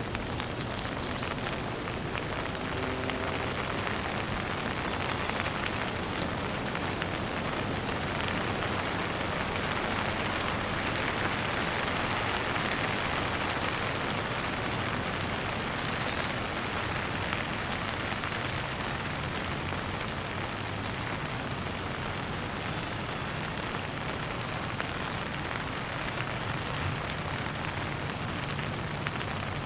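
Steady gentle rain falling, an even hiss of drops. About halfway through, a bird gives a brief burst of quick high chirps.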